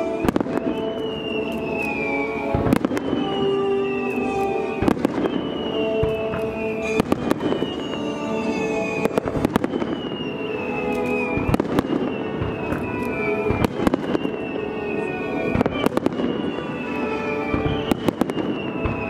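Aerial fireworks shells bursting in quick succession, many sharp bangs and crackles, over loud music with a falling phrase that repeats about every two seconds.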